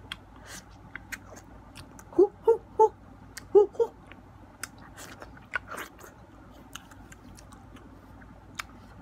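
Wet chewing and smacking of soft ripe mango, with small mouth clicks scattered throughout. About two seconds in, the eater makes three short voiced sounds, then two more a second later, louder than the chewing.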